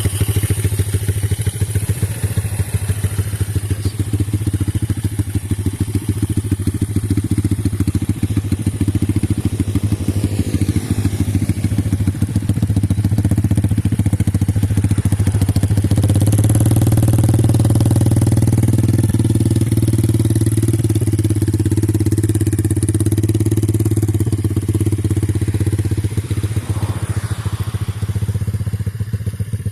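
Engine of a Dforce 120cc dirt bike running steadily, getting louder about halfway through and easing back a little near the end.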